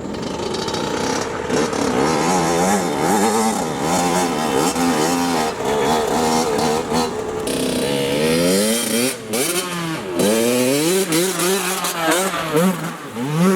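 Honda CR80 dirt bike's two-stroke single-cylinder engine revving hard, its pitch climbing and dropping again and again as the throttle is worked. From about eight seconds in come quick rising revs, one after another.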